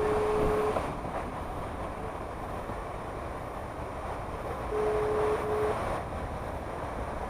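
Telephone ringback tone of an outgoing call, a single steady beep twice about five seconds apart, over a steady low rumble of vehicle and wind noise.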